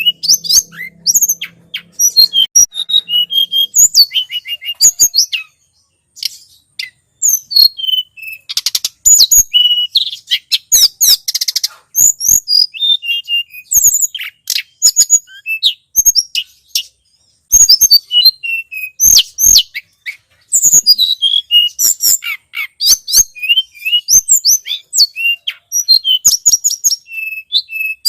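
Tledekan gunung, a small mountain flowerpecker, calling as a bird-lure recording: rapid, sharp, high chirps in quick runs, with a couple of buzzy trills and brief pauses.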